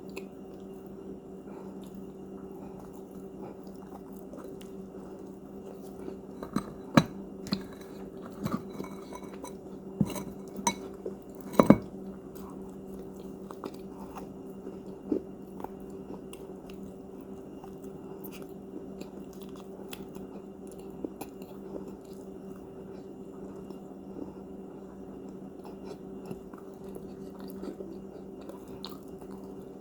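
A person biting into and chewing crunchy cookies: a run of sharp cracking bites starting about six seconds in, one more a few seconds later, then quieter chewing. A steady low hum runs underneath.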